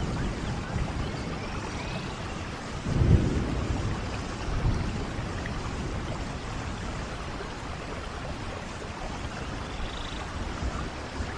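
Steady rain falling, an even hiss, with low rumbles underneath; the loudest rumble swells about three seconds in.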